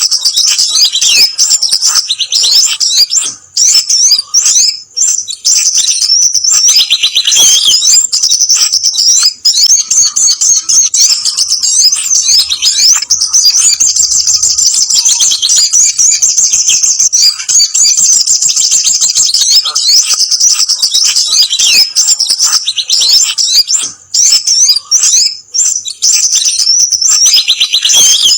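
Bird-lure recording of sogon (sunbird) and kemade calls: a loud, busy stream of fast, high chirps and trills that runs nearly without pause, broken only by a few short gaps.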